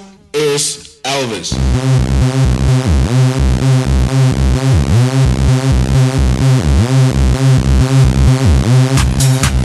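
Electronic dance music from a DJ mix. A brief break at the start, then a steady kick-drum beat and pulsing bass line come back in about a second in, with hi-hat-like percussion joining near the end.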